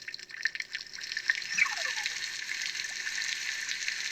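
Anki Vector robot playing its rain sound effect through its small speaker as part of a rainy weather report: a steady patter of falling rain, with a couple of falling electronic chirps about one and a half seconds in.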